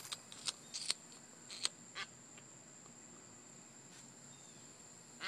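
A steady, high-pitched insect trill runs throughout. In the first two seconds it is broken by several short, sharp clicks.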